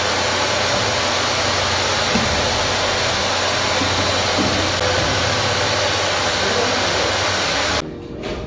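A machine running steadily and loudly: an even hiss with a low hum under it. It cuts off abruptly near the end, and a few light taps follow.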